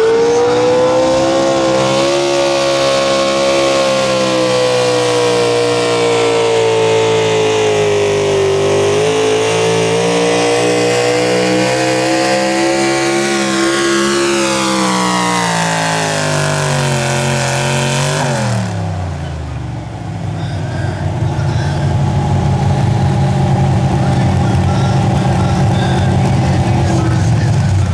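Pulling vehicle's engine at full throttle during a pull: the pitch climbs at the start, holds high while slowly falling, then drops sharply about eighteen seconds in as the engine is shut down and winds down. A lower engine then runs steadily to the end.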